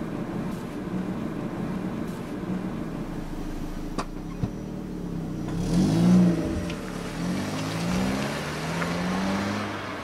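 A car engine running, then revving as the car pulls away and accelerates through the gears, its pitch rising and dropping with each change; loudest about six seconds in. Two short sharp clicks come just before it pulls away.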